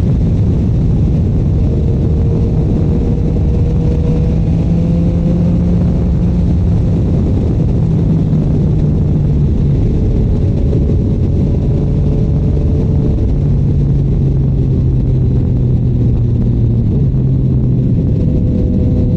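Yamaha MT-09's three-cylinder engine through a Shark Street GP exhaust, running steadily under way, its pitch drifting and shifting in steps a few times.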